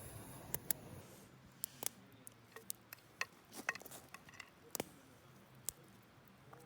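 Wood campfire crackling, with irregular sharp pops and snaps over a faint background hiss.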